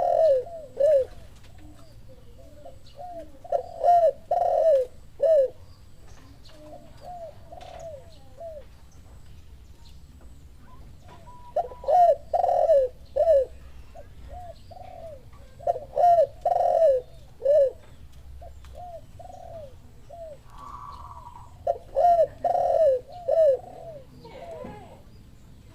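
Spotted doves cooing in repeated phrases of several short falling coos, every few seconds. The phrases alternate between louder and fainter ones, like a dove answering a call.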